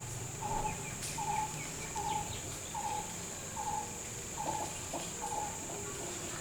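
A bird repeating a short call note about twice a second, over a steady high insect buzz.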